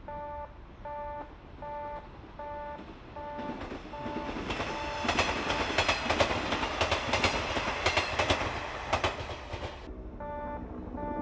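A railway level-crossing warning bell dings steadily about twice a second. From about four seconds in, a passenger train passes close by, its wheels clattering rhythmically over the rail joints and drowning out the bell. The train noise cuts off suddenly near the end, leaving the bell again with a low steady engine hum.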